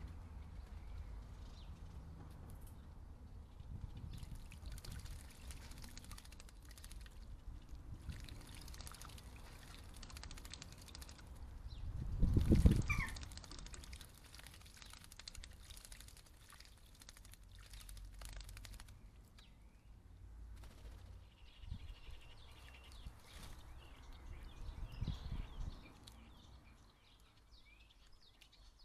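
Garden birds at a bird bath: water splashing and faint chirps over a low rumble, with one louder splashing burst about twelve seconds in.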